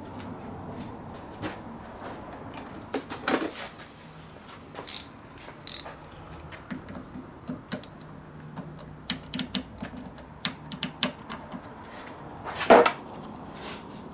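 Irregular light clinks and knocks of small metal parts and tools being handled, with one louder knock near the end.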